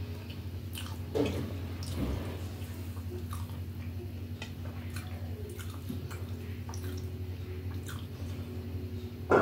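Close-up eating sounds of a person chewing masala dosa, with short wet mouth clicks and smacks. A steady low hum runs underneath, and a couple of slightly louder smacks come about a second and two seconds in.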